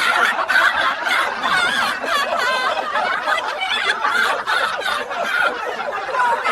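A group of people laughing, with snickers and chuckles overlapping.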